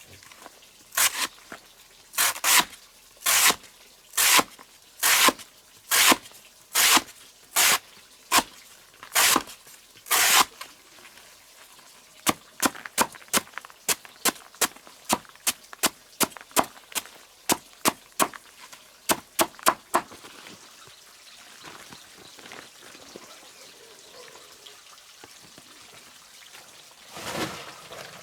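Repeated blows of a hand tool: about ten heavy strikes roughly one a second, then a quicker run of lighter strikes about two a second that stops about twenty seconds in. A short scuffing noise comes near the end.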